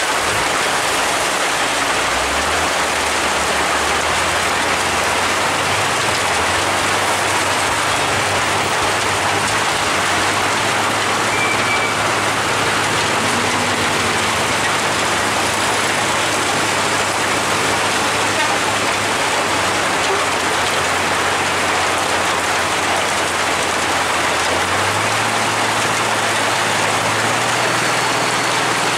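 Steady heavy rain falling, with the low drone of a truck engine running underneath it. The engine's pitch steps up a little twice.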